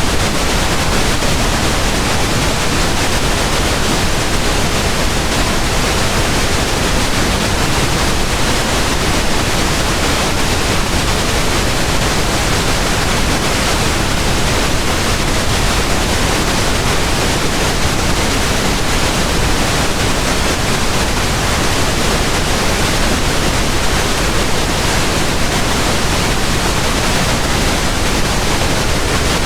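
Pink noise: a steady, even hiss spread across the whole range of pitch, with no change or events.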